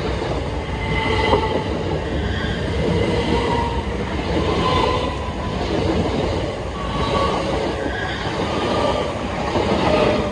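c2c electric multiple-unit passenger train passing close by at speed: a steady, loud rumble of wheels on rail that swells and dips about every second and a half as the cars go by, with brief whining tones from the wheels.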